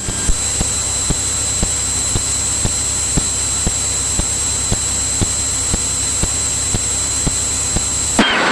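Steady cockpit engine and airflow noise of a Cirrus light aircraft in cruise, heard through the intercom's headset audio feed. It is an even hiss with a faint high whine and faint regular ticks about twice a second. It cuts in abruptly at the start and cuts off shortly before the end, as the audio channel opens and closes.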